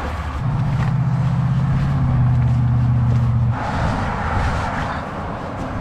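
A motor vehicle's engine running as a low hum for about three seconds, then cutting off abruptly.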